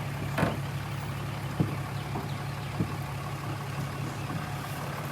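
A vehicle engine idling steadily, with a few short, sharp knocks over it.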